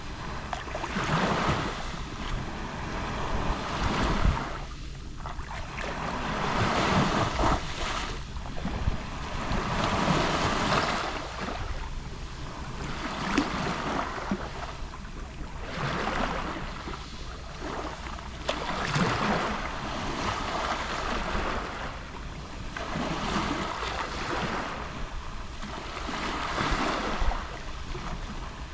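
Small sea waves lapping on the shore, each wash swelling and fading about every three seconds.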